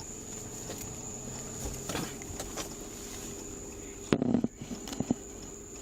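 A small locked box being opened and its contents handled: a few light clicks, then a short clatter of knocks and rustling about four seconds in, over a steady electrical hum and high whine.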